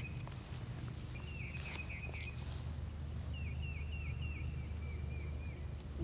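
A songbird singing: two runs of quick, repeated chirping notes, each note sliding down in pitch, over a steady low rumble of outdoor noise.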